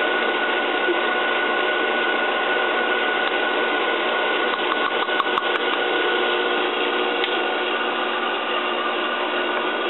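Electric mixer running steadily at speed, whipping egg whites with sugar and cream of tartar into meringue.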